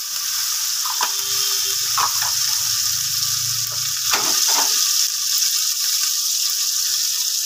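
Chopped onion, capsicum, beans and crushed carrot and tomato sizzling steadily in hot refined oil with cumin seeds in a kadhai, just added to be sautéed. A few light knocks come about a second in and again past the middle.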